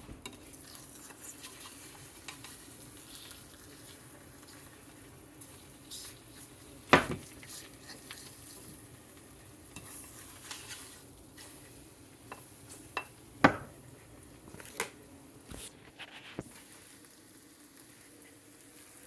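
An egg frying in a pan with a steady sizzle, while a spatula scrapes and taps against the pan; two sharp knocks, about a third and two-thirds of the way through, are the loudest sounds.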